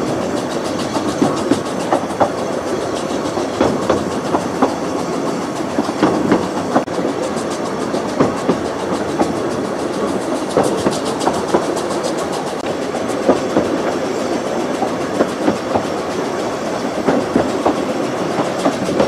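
Narrow-gauge passenger train running along the track, heard from a window of a moving carriage: a steady rumble with frequent, irregular clicks and knocks from the wheels on the rails.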